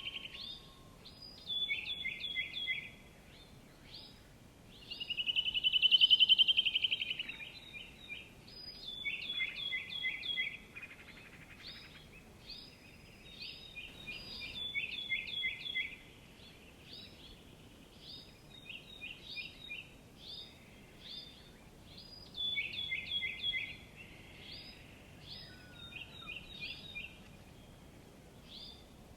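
Songbird song: phrases of quick falling notes repeated every few seconds, with a loud rapid trill about six seconds in, over faint steady outdoor background noise.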